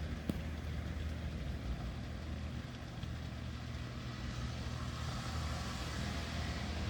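Steady rain with a low rumble of street traffic; a car's tyres hiss on the wet road, growing louder near the end.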